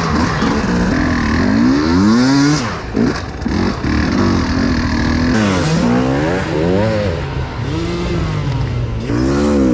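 Enduro motorcycle engine revving up and down as it is ridden, its pitch repeatedly rising and falling with the throttle. The engine drops off briefly about three seconds in.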